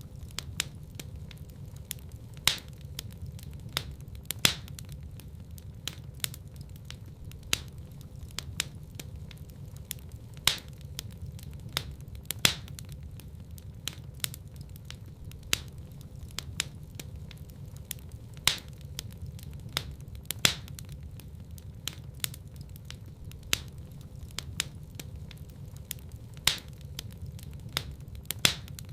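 Wood fire burning in a fireplace: a steady low rumble of the flames with sharp crackles and pops from the burning logs, the loudest pops coming every couple of seconds.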